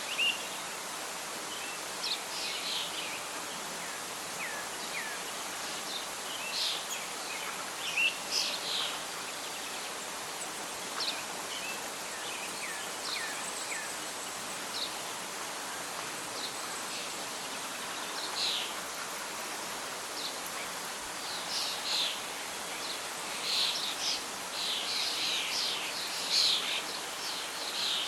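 Outdoor nature ambience: a steady hiss of wind and rustling leaves, with birds chirping and calling in short scattered phrases that grow busier near the end.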